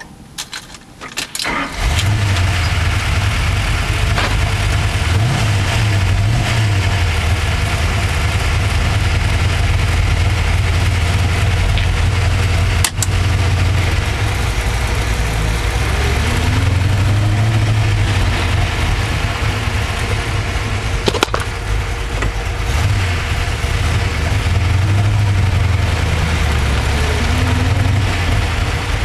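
1969 Camaro's 427 cubic-inch small-block Chevy V8 cranking briefly and firing up about two seconds in, then idling unevenly, its low note swelling and fading every few seconds, heard from inside the car. Two sharp clicks partway through.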